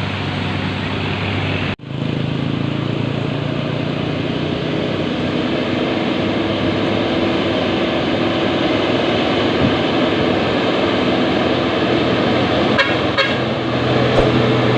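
Diesel engine of a heavily loaded Hino dump truck labouring uphill, a steady low drone with road traffic around it. The sound cuts out for an instant about two seconds in.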